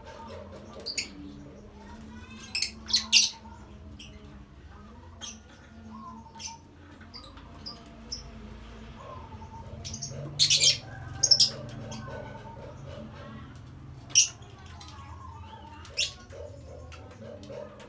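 Lovebirds giving short, shrill chirps, a dozen or so scattered calls, the loudest about three seconds in and in a cluster around ten to eleven seconds, over a steady low hum.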